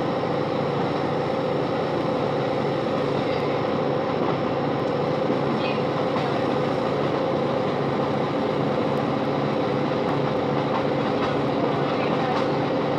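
Steady running noise inside a Great Western Railway Class 165 diesel multiple unit travelling at speed: a constant hum from the train over wheel and rail noise.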